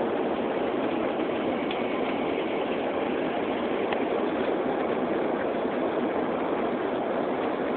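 Steady rush of airliner cabin noise, the jet engines and airflow heard from inside the cabin, even in level throughout.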